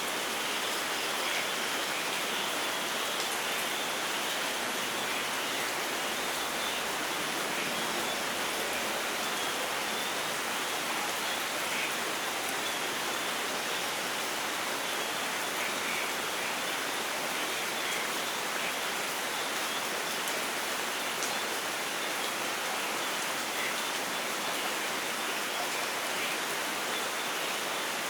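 Steady light rain falling, an even hiss of drops on surfaces.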